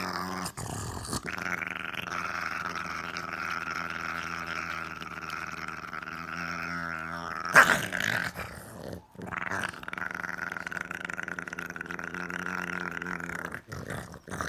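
A dog growling in two long, steady stretches, with a short loud sound between them about seven and a half seconds in.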